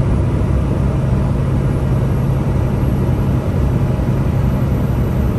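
Steady low drone of a Peterbilt 579 semi-truck cruising at highway speed, engine and road noise heard from inside the cab.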